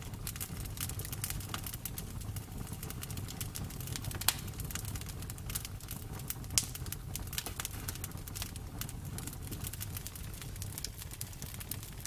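Campfire burning, wood crackling with a steady stream of small irregular snaps over a low rumble of the flames, and two sharper pops, one about four seconds in and one a little past halfway.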